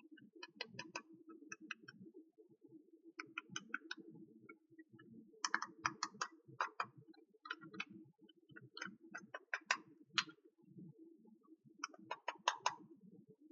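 Small plastic toy pieces clicking and tapping together as they are handled, in quick clusters of clicks every couple of seconds, over a faint steady low hum.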